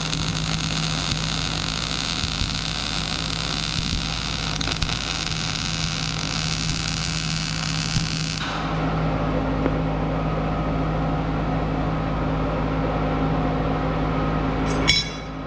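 Electric arc welding on the snowblower's skid: a steady crackling hiss over a hum. About halfway through the hiss stops and a lower steady hum carries on, cutting off suddenly just before the end with a couple of sharp clicks.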